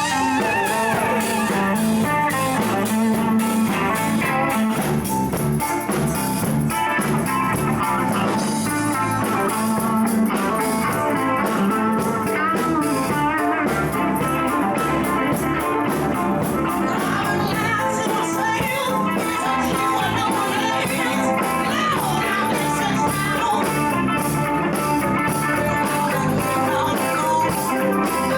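Live band playing a blues-rock jam, led by electric guitar with bass and drums, with some singing.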